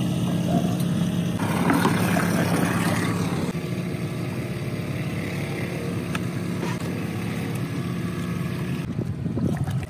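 Boat engine running steadily at trolling speed, a low even hum, with a louder rush of wind or water from about one and a half to three and a half seconds in.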